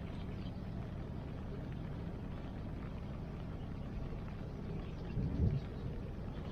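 Steady low rushing of rain and river water around a wood campfire, with faint scattered crackles. A low rumbling thump swells and fades about five seconds in.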